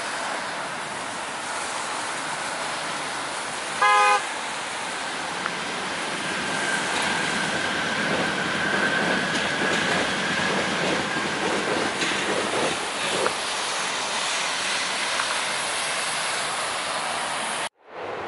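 Class 490 electric multiple unit running past with a steady rush of wheels and air, sounding one short horn toot about four seconds in. A thin steady whine runs through the middle of the pass.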